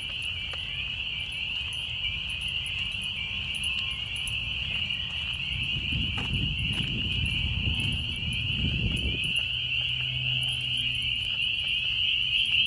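Dense chorus of spring peepers: a continuous shrill, high-pitched mass of overlapping peeps, deafening. A low rumble rises about halfway through and fades a few seconds later.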